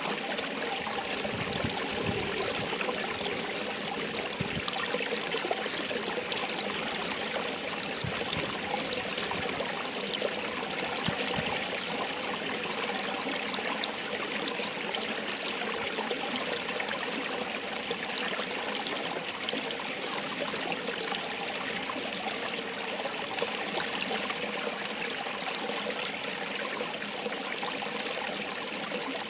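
Running water flowing steadily, an even, continuous rush and trickle with no breaks.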